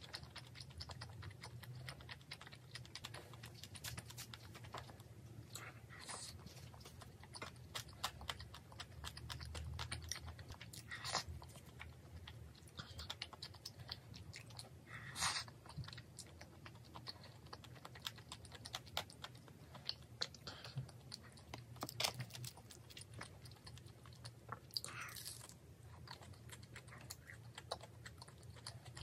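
Close-up chewing and mouth sounds of someone eating rosé tteokbokki, soft rice cakes and fish cake with rice, made up of many small wet clicks. A few louder short smacks come every several seconds.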